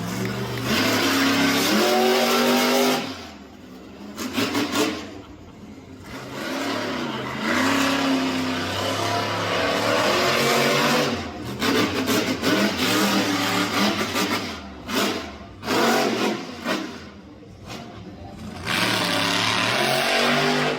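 Monster truck engine revving hard in long full-throttle bursts, its pitch climbing and falling as the throttle opens and closes. In the middle is a run of short, sharp throttle blips.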